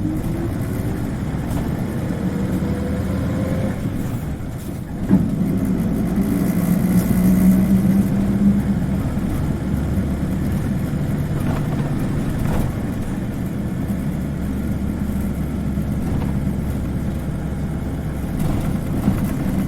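Isuzu Cubic KC-LV380N city bus heard from inside, its diesel engine pulling with a whine that rises in pitch for about four seconds. About five seconds in there is a sharp knock, and the engine note jumps louder, then settles into steady running.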